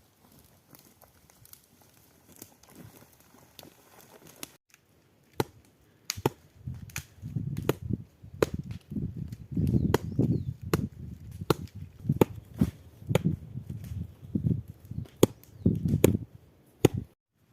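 A run of sharp knocks, about two a second, each with a dull thud beneath, starting about six seconds in after a stretch of faint clicks.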